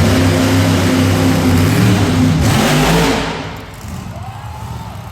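Monster truck engine revving loud and hard, then easing off with its pitch falling about three seconds in, settling to a lower running sound.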